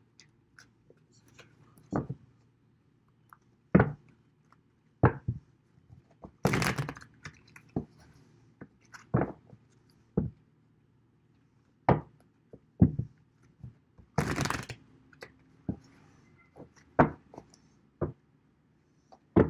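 A deck of tarot cards being shuffled and handled on a table: a series of separate knocks and taps, with two longer rustling bursts of cards about six seconds in and again about fourteen seconds in.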